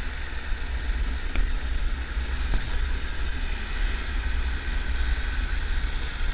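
Triumph Tiger 1200 three-cylinder adventure motorcycle on the move, heard as a steady rush of wind and a deep rumble on the GoPro microphone.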